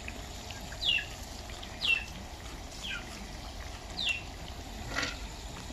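A small bird chirping repeatedly, with short falling calls about once a second, over a steady hiss of a batch of vegetables frying in oil.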